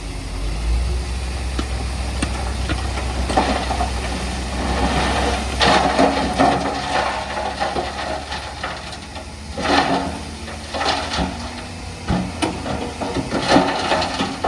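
Diesel engine of heavy earthmoving machinery running low and steady, with several short bursts of rattling and scraping over it.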